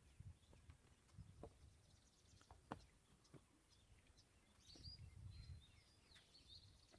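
Near silence: faint outdoor ambience with a low rumble, a few faint clicks, and a few faint bird chirps in the second half.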